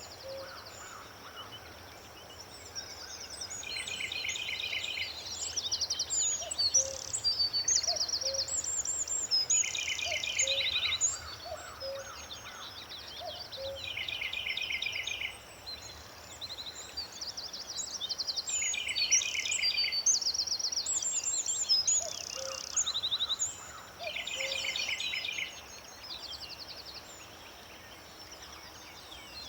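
Several songbirds singing. Short trilled phrases repeat every few seconds, some higher and some lower, over a steady background hiss.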